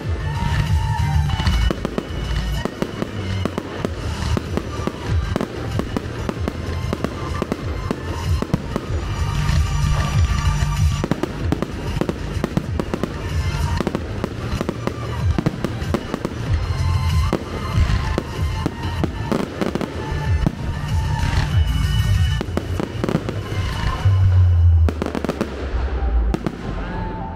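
Aerial fireworks shells launching and bursting in quick succession, a dense run of bangs and crackle, with music playing alongside.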